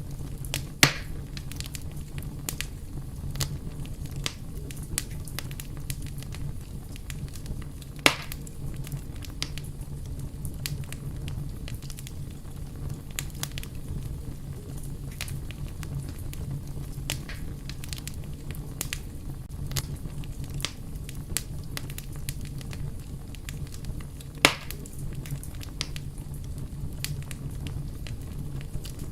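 A fire crackling steadily over a low rumble, with many small irregular snaps and three louder sharp pops, about a second in, about eight seconds in and near the end.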